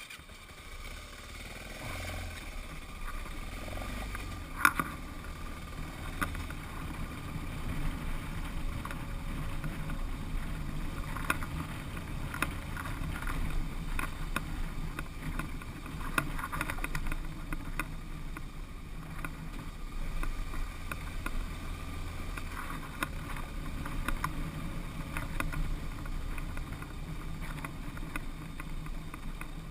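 Single-cylinder dual-sport motorcycle running with a steady low engine note on an unpaved road, with scattered knocks and rattles from the ride; one sharper knock comes about four and a half seconds in.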